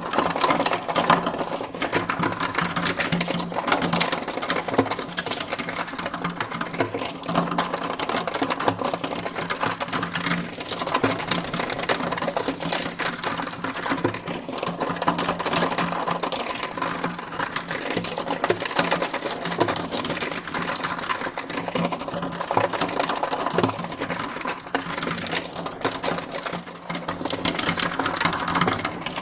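Continuous rapid mechanical clatter over a steady low hum, slowly sweeping around the listener in binaural 8D panning.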